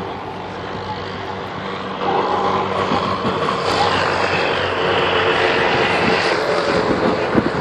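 MH-6 Little Bird helicopter flying overhead, its engine and rotor noise growing louder about two seconds in and holding steady.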